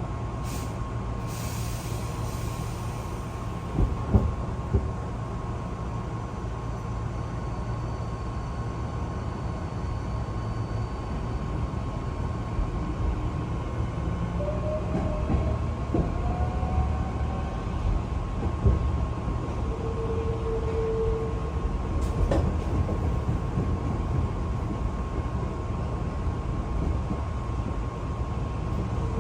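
Hankyu local electric train running out of the station, heard from inside the car: a steady low rumble of wheels on rail, with a few clicks a few seconds in and short tones from the running gear partway through.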